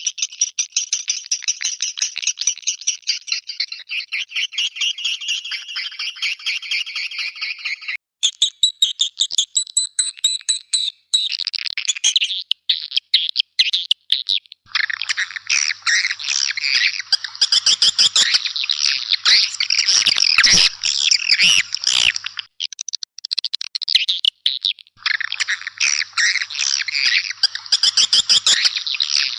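Swiftlet calls played as a lure sound: fast trains of high, buzzy chirps that thicken into dense, overlapping chattering about halfway through.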